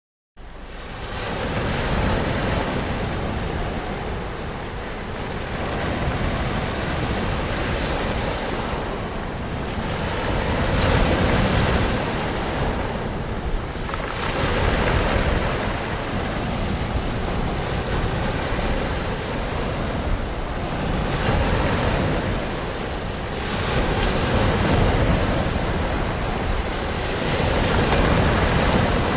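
Ocean surf: waves breaking and washing in as a steady rush that swells and eases every few seconds. It comes in out of silence right at the start.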